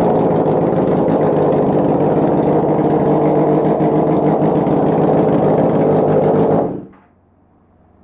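Crash-damaged 2011 Kawasaki ZX-10R's inline-four engine running at a steady idle, then shut off abruptly about seven seconds in.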